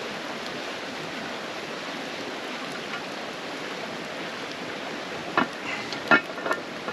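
Mountain creek flowing: a steady rush of running water. Near the end come several short, sharp clicks and knocks.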